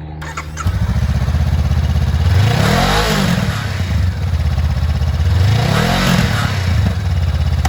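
Honda CBR500R's 471 cc parallel-twin engine idling and blipped twice. The revs climb and fall back about two and a half seconds in and again near six seconds.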